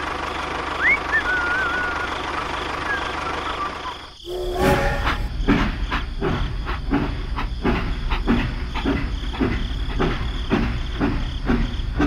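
A steady low rumble with a few short chirps. After a brief dip about four seconds in, a short whistle-like note sounds, then a train's wheels give a regular clickety-clack over the rail joints at about two beats a second.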